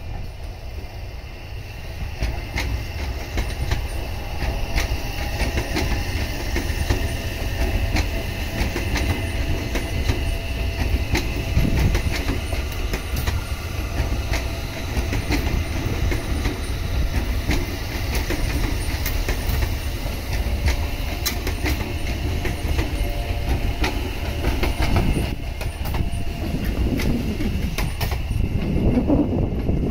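Tokyu 3000 series electric train passing close by at speed: wheels clicking over the rail joints, with rumble and a steady whine from its VVVF inverter traction motors.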